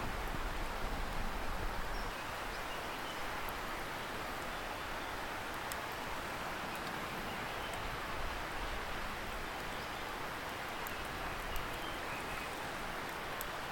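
Steady hiss of a distant river, with scattered faint crackling ticks from a wood campfire. A low rumble drops away about two seconds in.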